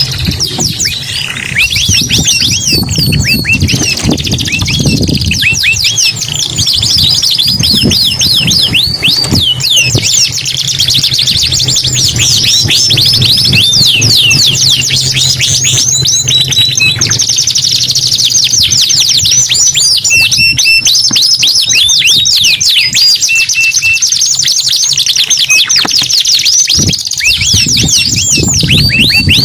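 Domestic canary singing without a break: fast trills and rapidly repeated sweeping notes, high-pitched.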